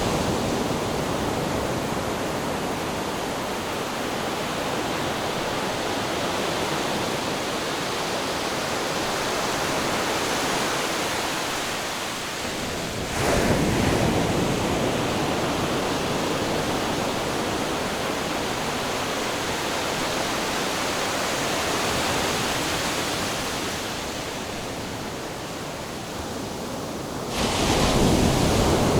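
Ocean surf: a continuous wash of waves, surging louder suddenly about 13 seconds in and again near the end.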